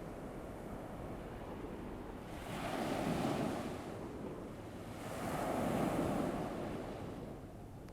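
Ocean surf from a sound-effects track: waves washing onto a shore, swelling twice, a few seconds apart, and falling back between.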